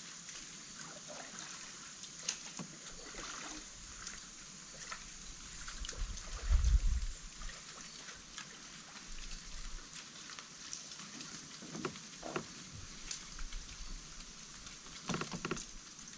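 Water trickling and sloshing around a kayak, with small scattered knocks, and a low thump about six and a half seconds in.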